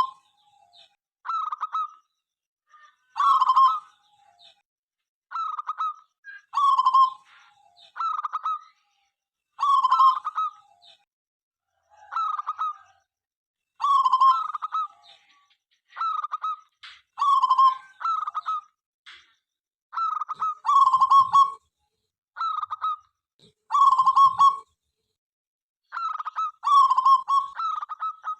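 Zebra dove (perkutut) cooing: short pitched coo phrases repeated every one to two seconds.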